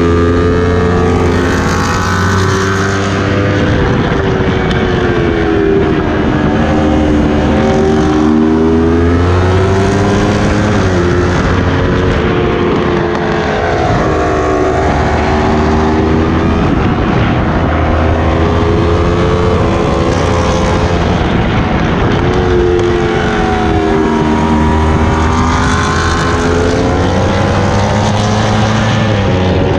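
Sport motorcycle engine heard from an onboard camera, its revs rising and falling through the bends, over a steady rush of wind.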